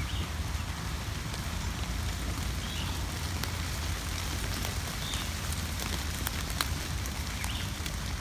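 Steady spring rain falling on leaves and grass, with individual drops ticking sharply now and then. A steady low rumble sits underneath.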